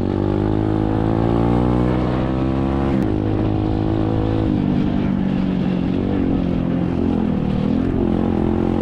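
SSR 125cc dirt bike's single-cylinder four-stroke engine running under way. The revs climb over the first couple of seconds, break about three seconds in, drop about four and a half seconds in, then rise and fall.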